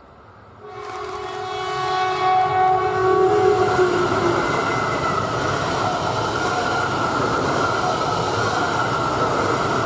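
E3 series Yamagata Shinkansen train sounding its horn in one long note of about three seconds, starting just under a second in, then the steady rush and rumble of the seven-car train passing close by.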